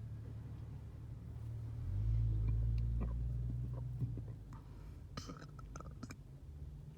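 Low vehicle rumble heard from inside a car, swelling about two seconds in and fading after about four, with small clicks and rustles of handling near the end.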